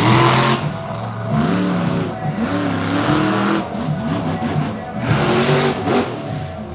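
Monster truck engines revving, their pitch rising and falling again and again, with music playing underneath.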